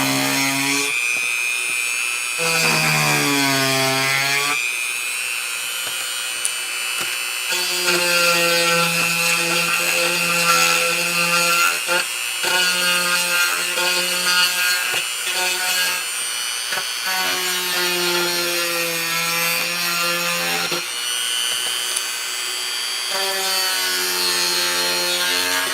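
Dremel rotary tool running at speed setting 4, grinding a shallow recess into a small wooden piece. A steady high motor whine runs under a lower hum whose pitch dips and recovers several times as the bit presses into the wood and eases off.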